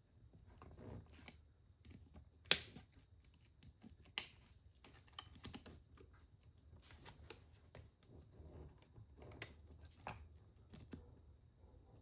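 Hands working on wiring in an RC car chassis: light rustling and small plastic clicks, with a handful of sharp snaps, the loudest about two and a half seconds in.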